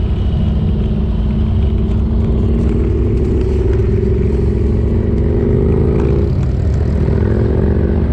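Harley-Davidson Ultra Limited's V-twin engine running under way, with a deep rumble and a note that climbs slowly, breaks off about six seconds in and picks up again a little lower.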